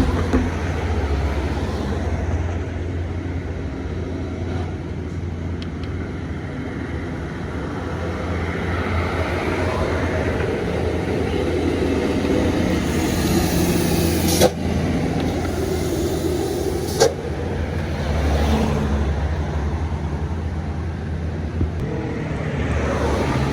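Road traffic: the engines of passing buses and trucks running steadily with a low hum, rising and falling as vehicles go by. Two sharp knocks stand out around the middle, a couple of seconds apart.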